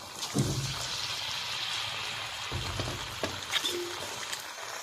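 Batter-coated egg and potato bajji deep-frying in hot oil, a steady sizzle, with two dull knocks, about half a second in and again near the middle.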